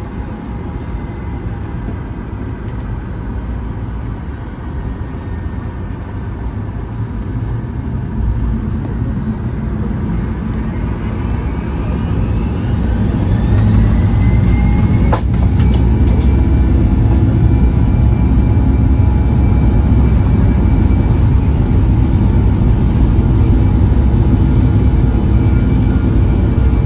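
Boeing 757-200's twin jet engines heard from inside the cabin, spooling up with a rising whine about halfway through and then holding steady and loud at takeoff thrust. A single click comes just as the whine levels off.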